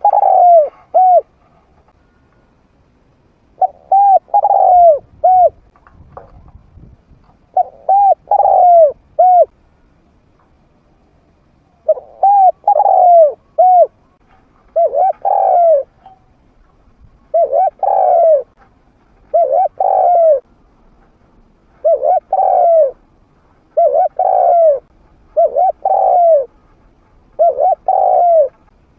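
Spotted dove cooing, a trained decoy bird with a mid-pitched voice: short phrases of three or four coos, repeated about every two seconds.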